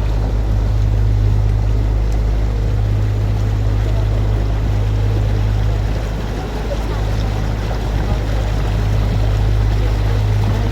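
Open canal tour boat's motor running steadily, a low hum under a wash of water and air noise.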